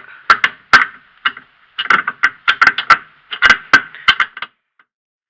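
Metal tools knocking and clinking against the steering tie-rod end and its joint: about a dozen sharp, ringing metal-on-metal strikes at an uneven pace, stopping about four and a half seconds in.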